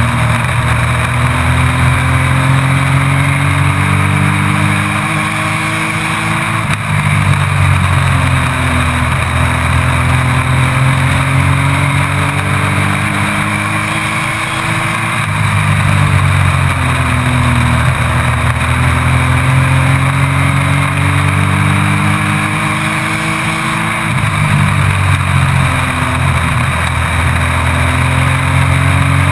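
Race truck's engine heard from the onboard camera during racing laps: the pitch climbs through each straight, then drops off into each turn and climbs again, about every eight seconds.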